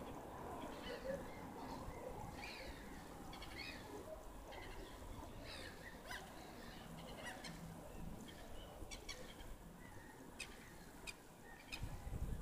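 Birds calling in a scatter of short calls over a faint low rumble, with a few sharp clicks near the end.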